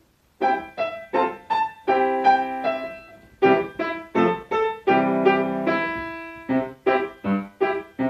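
Piano playing a song's introduction: short plucked-sounding notes and held chords, starting about half a second in after near silence.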